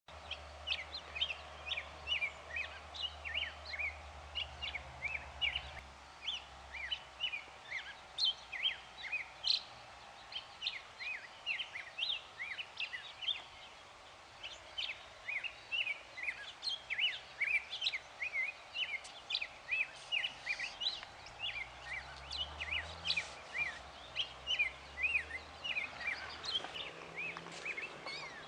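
Birds chirping continuously, a stream of short high chirps about three a second.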